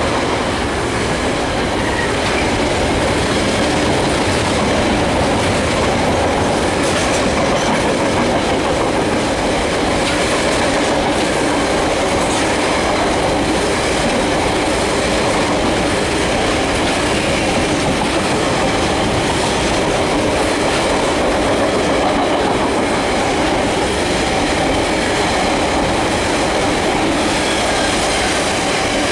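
A long rake of container wagons on a freight train rolling past close by: the steady, loud noise of steel wheels running on the rails.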